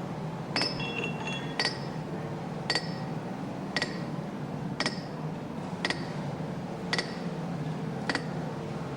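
Hammer striking iron in a steady series of about eight blows, roughly one a second, each a sharp metallic clink with a short ring: driving home the wedges and iron plates that fix the tail hammer's bearing blocks.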